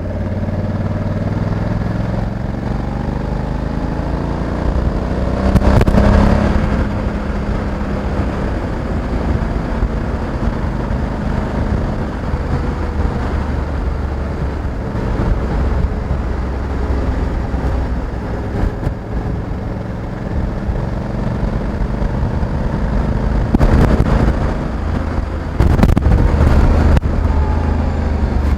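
Honda Africa Twin 1100 DCT motorcycle's parallel-twin engine running under way, its note rising and falling as the bike speeds up and shifts, over steady road and wind noise. Louder rushes of noise come about six seconds in and twice near the end.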